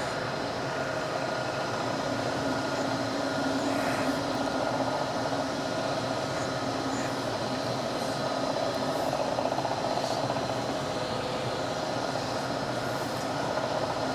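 Gallmeyer & Livingston No. 55 surface grinder running: a steady machine whine with a few constant tones over an even hiss, while the grinding wheel is eased down toward the work.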